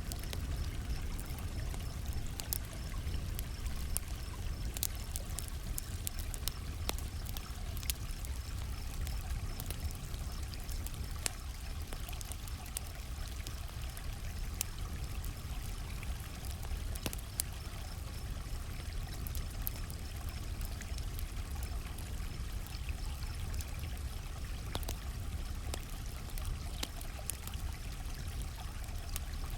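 Campfire crackling with scattered sharp pops over a steady rush of running creek water, while crickets chirp in a high, even pulse.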